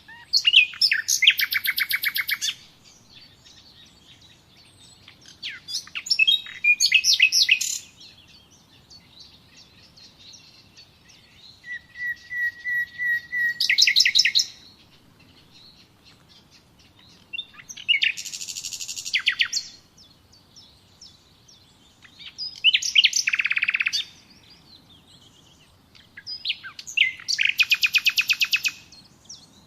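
A songbird singing six short phrases of rapid trilled notes, one every four to five seconds.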